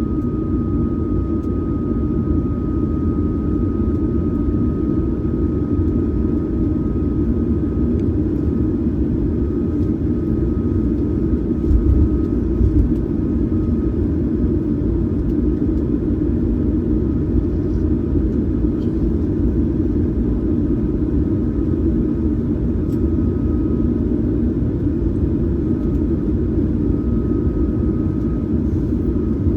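Cabin noise of a Boeing 737-900ER on the ground after landing: a steady rumble from its CFM56 turbofan engines at idle and the cabin air, with a thin high whine that fades out midway and comes back near the end. A couple of brief low bumps come about twelve seconds in.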